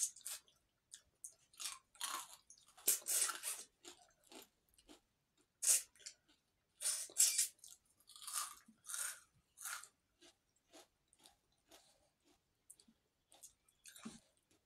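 Close-up chewing and crunching of fried fish and rice, in irregular short bursts with small gaps, louder in the first ten seconds and fainter toward the end.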